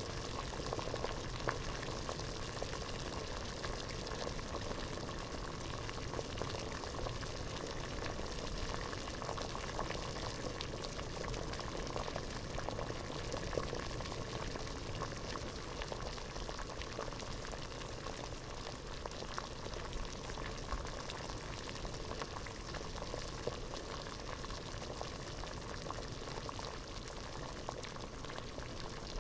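Water at a full rolling boil in a pot, bubbling steadily with a dense crackle of small pops.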